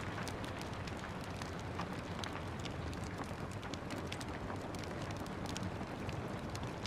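Steady rain falling, mixed with a wood fire crackling, its sharp pops and snaps scattered through the rain's even hiss.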